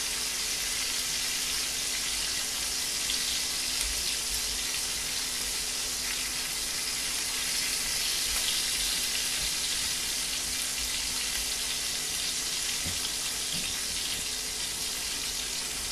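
Duck, ginger and garlic sizzling steadily in a frying pan.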